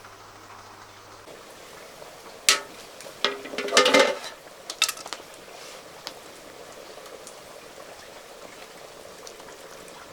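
Food boiling in a pot with a steady low hiss, and a run of clinks and knocks of cookware and utensils about two to five seconds in.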